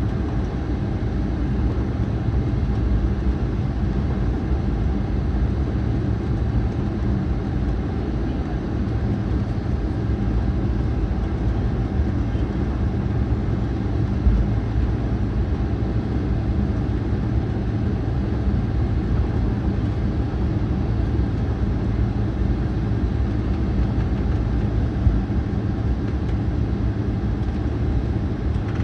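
Jet airliner cabin noise while taxiing after landing: a steady low rumble of the engines at idle and the rolling aircraft, with a brief knock about 14 seconds in and another near 25 seconds.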